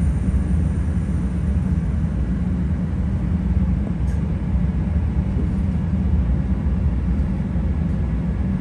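Steady low rumble inside a Bombardier 5000-series CTA rail car as the train starts pulling out of the station after the doors close.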